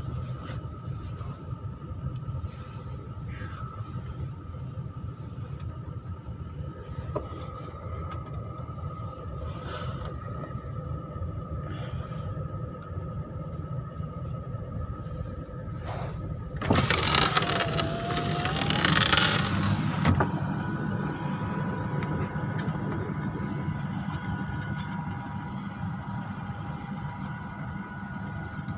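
A vehicle engine running steadily, a low rumble with a faint steady whine. About seventeen seconds in, a loud rushing noise rises over it for about three seconds.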